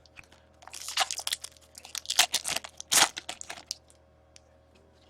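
Crinkling and rustling as trading cards and their packaging are handled, a run of crackles that lasts about three seconds.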